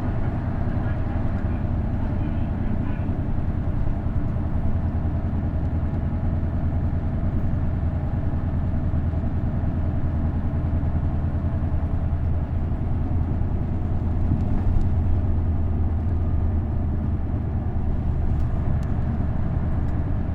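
Isuzu Erga KL-LV280L1 city bus's V8 diesel engine running at a steady speed, a low steady drone heard from inside the bus, briefly a little louder about fifteen seconds in.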